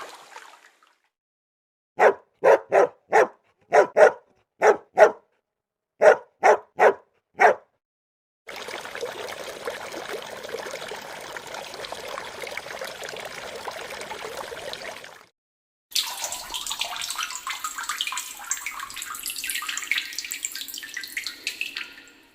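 An animal barking: about ten short barks in two quick runs. Then a steady rush of water in two stretches separated by a cut.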